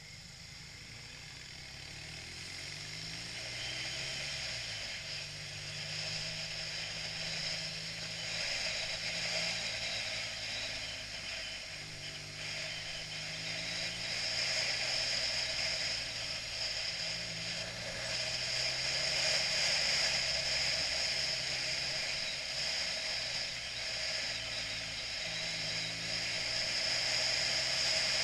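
BMW motorcycle being ridden: the engine note rises and drops several times, under steady wind and road noise that grows louder as it goes.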